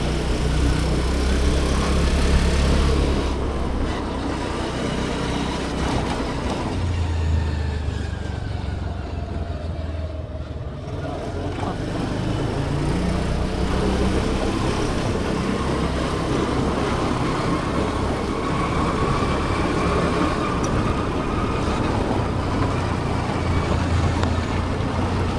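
Motor vehicle engine and road noise, steady, with a low hum; the engine's pitch falls about ten seconds in and rises again later.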